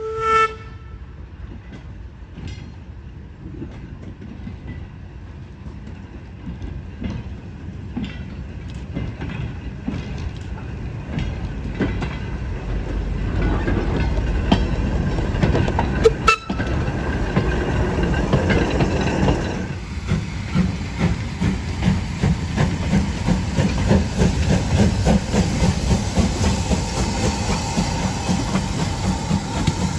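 Heritage locomotives and wagons moving slowly past at close range. A short whistle toot comes about half a second in. Then a low rumble and wheels clicking over the rail joints grow louder about halfway through and continue as a steady pulsing rumble.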